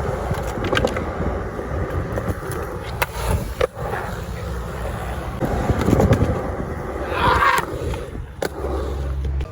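Wheels rolling over skatepark concrete with a steady rumble, broken by several sharp clacks and knocks, and a brief squeak about two-thirds of the way through.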